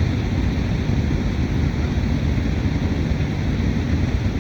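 A steady, low rushing noise with no distinct events.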